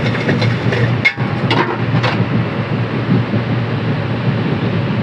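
Steady rumble and hum of an Indian Railways passenger coach heard from inside, with faint passenger voices and a single sharp knock about a second in.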